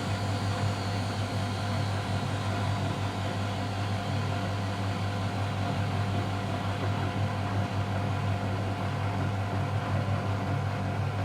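Miele Novotronic W715 washing machine spinning steadily in its final spin: a constant low motor hum with a steady higher whine above it.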